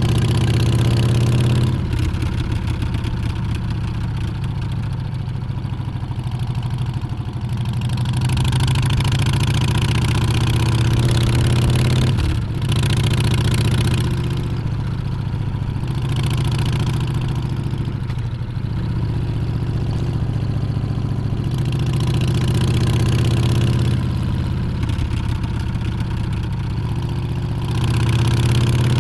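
Harley-Davidson Street Bob's Milwaukee-Eight 114 V-twin running on the move, its note rising and falling with the throttle. The sound breaks briefly about 2 seconds in and again about 12 seconds in, as at gear changes.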